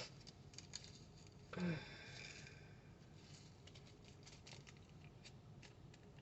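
Faint, scattered small clicks and taps of tiny resin drills being handled in a plastic tray, with one louder brief rustle and a short murmur about a second and a half in.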